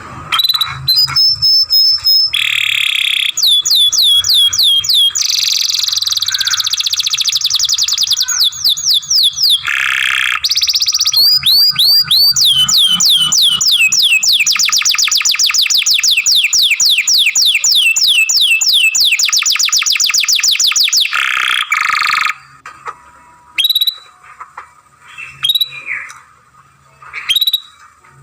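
Young canary singing a long, continuous song of fast trills, each a rapid run of repeated falling high whistles. The song stops about 22 seconds in, leaving scattered short chirps.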